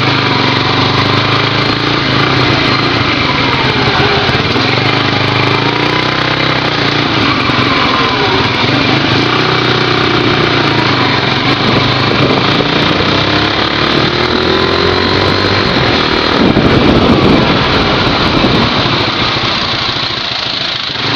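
Small motorcycle engine running while riding through city traffic, its pitch rising and falling with the throttle over steady road and wind noise. About sixteen seconds in, a louder rush swells for a couple of seconds.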